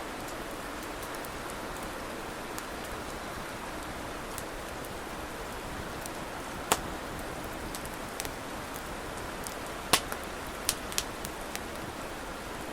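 Wood fire burning with a steady hiss and scattered sharp crackling pops. The loudest pops come about halfway through and again about three-quarters in, with a few smaller ones just after.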